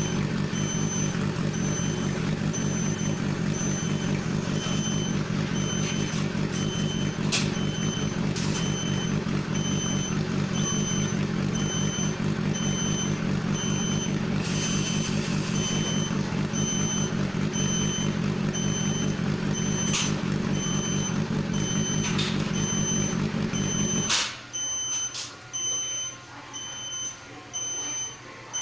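A steady low mechanical hum with a high electronic beep repeating at an even pace over it. Near the end the hum stops suddenly, leaving the beeping and a few faint clicks.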